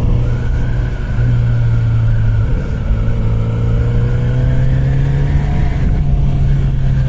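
Kawasaki Z900RS Cafe's inline-four engine running under way, its note steady, easing briefly about a second in, then slowly rising in pitch as the bike gathers speed.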